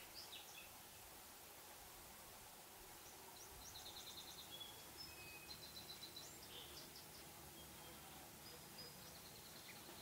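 Faint high-pitched bird calls over a low steady background hiss: a few quick runs of rapidly repeated notes, the first about three and a half seconds in, and some short thin whistles.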